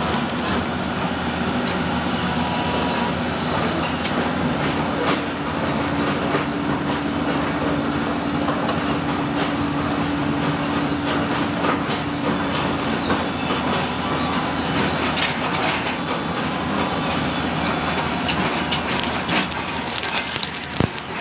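Excavator at work: its engine runs steadily under a continuous din of clanking, creaking and short squeaks from the machine and the material it handles.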